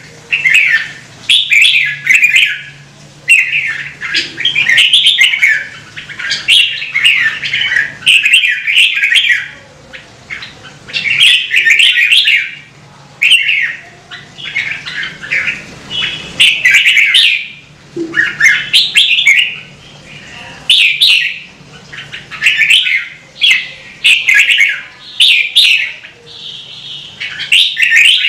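Red-whiskered bulbul singing: loud warbled phrases, each about a second long, repeated one after another with short pauses.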